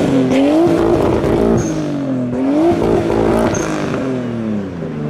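Car engine revving, its pitch climbing and falling several times and settling to a lower steady note near the end, with two short high chirps in between.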